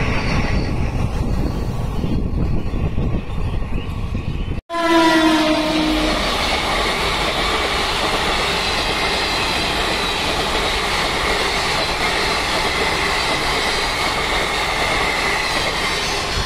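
Indian Railways express train coaches rushing past at high speed close by. After a cut about four and a half seconds in, a locomotive horn sounds with a falling pitch as the train passes, followed by the steady rush of coaches going by at speed.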